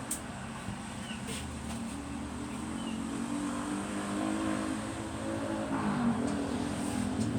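A vehicle engine, likely the truck's, running steadily with a low hum that grows gradually louder.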